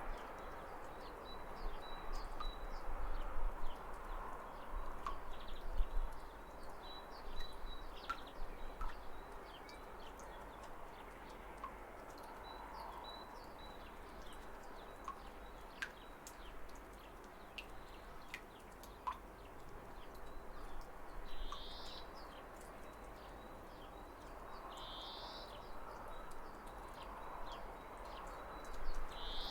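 Steady rush of falling water from a waterfall, with birds chirping over it: many short high chirps scattered throughout and a few slightly longer calls in the second half.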